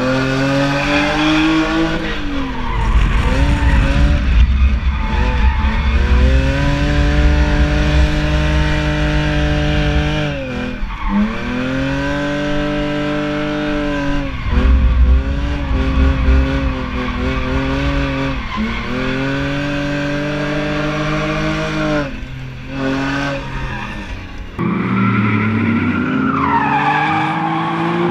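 BMW E46's engine revving hard through a drift run, heard from inside the cabin: the revs climb, hold, then drop sharply and climb again several times, with tyres squealing and skidding underneath.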